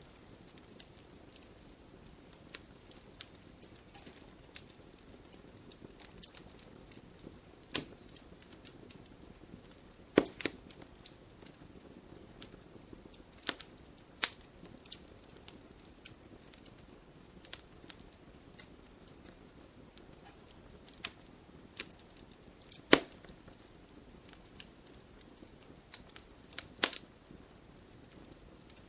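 Campfire crackling: irregular pops and snaps of burning wood over a soft hiss, with a few sharper loud snaps around ten seconds in, past twenty seconds, and near the end.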